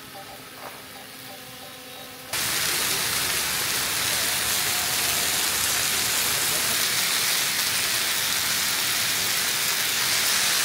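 Faint background music, then from about two seconds in a steady sizzling that starts suddenly: pork belly and minari frying on a hot griddle pan.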